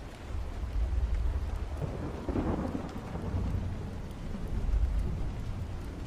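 Steady rain with a low rolling rumble of thunder that swells about two seconds in.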